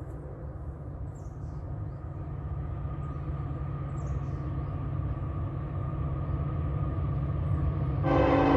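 Approaching Norfolk Southern train: a low diesel rumble grows steadily louder, then the locomotive horn sounds a loud chord about eight seconds in.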